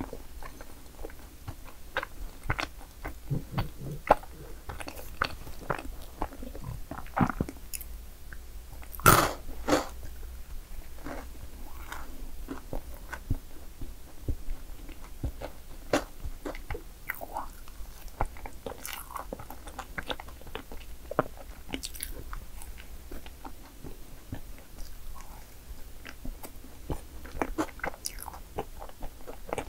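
Close-miked chewing and biting of madeleine cakes, with irregular small crunches and mouth sounds and one louder bite about nine seconds in.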